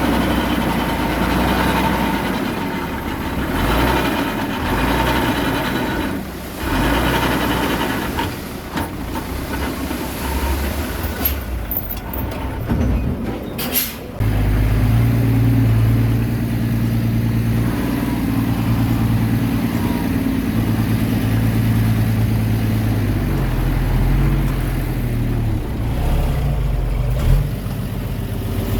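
Diesel engine of heavy earthmoving machinery running, its sound shifting with load for the first half. Brief sharp high-pitched sounds come about halfway, then the engine settles into a steady low drone.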